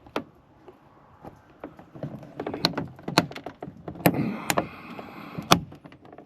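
Plastic door light lens being pushed into a 1997 Ford F-350's door panel: a run of sharp plastic clicks and snaps in the second half, as its tabs snap into place and the lens seats.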